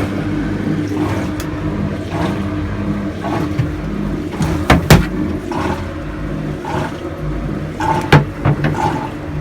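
A steady low mechanical hum, with two sharp knocks, one about halfway through and one near the end.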